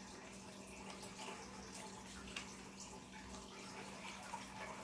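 Faint, irregular soft clicks and rustles of Pokémon trading cards being shuffled by hand, over a steady low hum.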